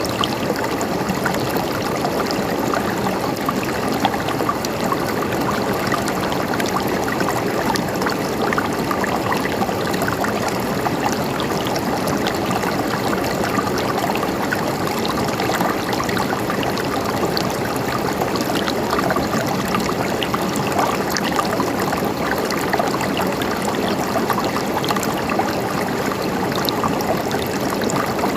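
Water of a small stream gurgling and trickling steadily over stones, a dense splashing without pause.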